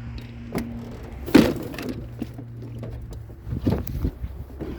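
A sharp thump about a second and a half in, with a few lighter knocks near the end, over a steady low hum that stops shortly before the knocks.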